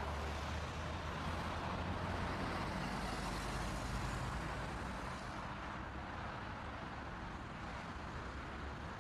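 Steady road and engine noise of a moving vehicle, as picked up by a dashcam, easing off slightly in the second half with no impact heard.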